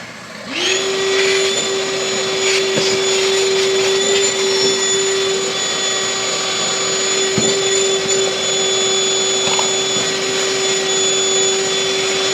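A small electric motor starts up about half a second in and runs at a steady, even pitch with a hissing rush, with two light knocks part-way through.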